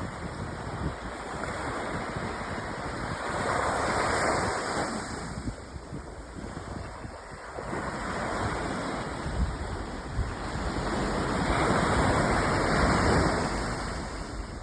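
Ocean waves breaking and washing in, the surf noise swelling and fading in slow surges every several seconds, with some wind on the microphone.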